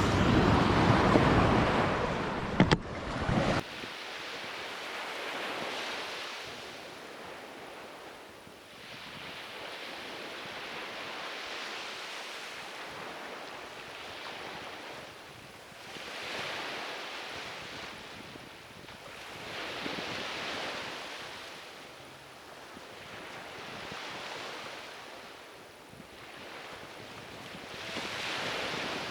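Surf breaking on a sandy beach, the waves washing in and out in slow swells about every four seconds. For the first few seconds, wind rumbles loudly on the microphone, then stops abruptly.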